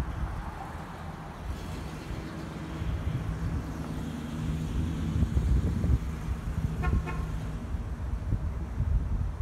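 Chevrolet Impala's 283 V8 running as the car pulls away at low speed, a low steady rumble. A short horn toot comes about seven seconds in.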